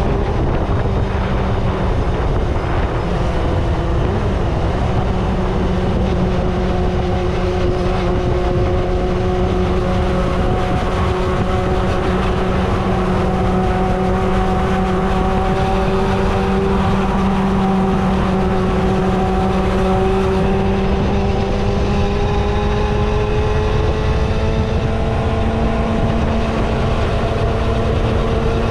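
Kawasaki ZXR250 inline-four engine running at steady high cruising revs on the move, with a dense low rumble underneath. The engine pitch climbs gradually over the last several seconds as the revs build.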